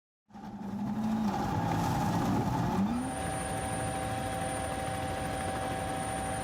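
Rally car engine fading in after a cut. Its pitch dips about a second in and rises again near three seconds, then holds steady with a thin high whine over it.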